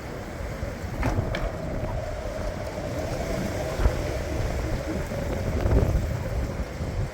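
Strong wind buffeting the microphone in uneven low rumbling gusts, with a faint steady hum running through most of it and two small clicks about a second in.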